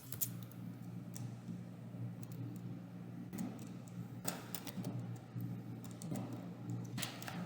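Computer keyboard typing: sparse keystrokes, a few scattered clicks with a short run of them near the end, over a steady low hum.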